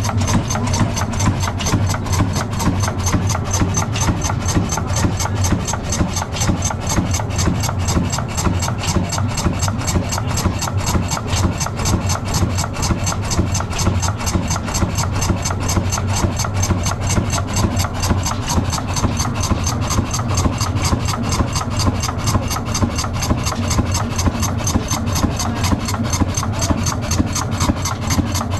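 60 hp Ruston Hornsby diesel engine running steadily, with an even, rapid beat.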